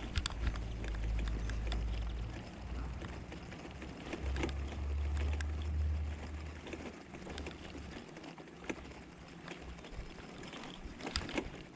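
Bicycle rolling over a bumpy old-town street, rattling with many small clicks and knocks. Wind rumbles low on the microphone for the first two seconds or so and again around the middle.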